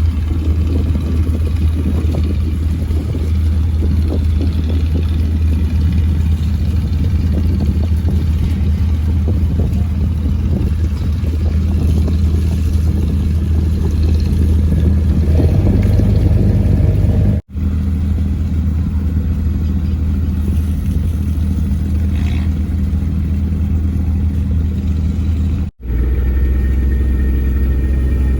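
Engine running steadily with a deep, low drone. It cuts out abruptly twice for a split second, and the engine's pitch shifts slightly after each break.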